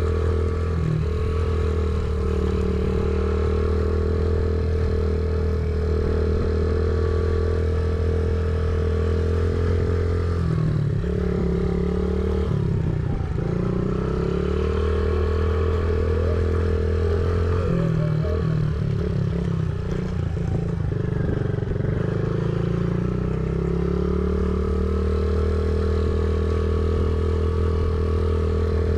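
Small single-cylinder four-stroke engine of a Honda CRF50 mini dirt bike running under way. The note holds steady for about ten seconds, then rises and falls with throttle changes through the middle, and holds steady again near the end.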